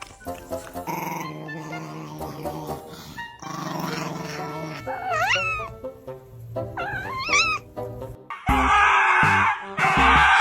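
A pet animal gives two wavering, rising and falling calls over background music. Near the end a louder, noisier stretch with low beats takes over.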